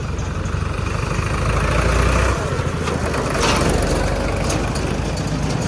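Heavy diesel engine running steadily, building up in level between about one and a half and two seconds in. There is a short hiss about three and a half seconds in.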